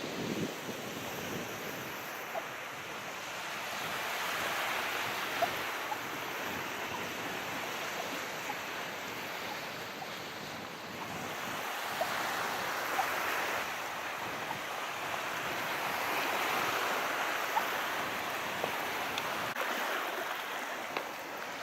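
Calm sea: small waves washing in and drawing back, the hiss swelling and easing slowly every several seconds, with a few faint ticks of splashing water.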